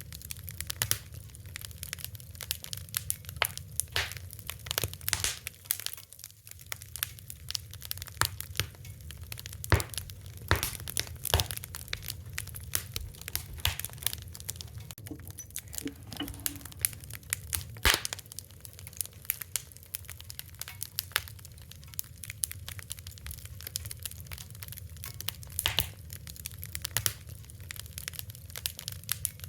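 Wood fire crackling: irregular sharp pops and snaps over a low, steady rumble of burning, with a few louder cracks, one of the loudest about ten seconds in and another near eighteen seconds.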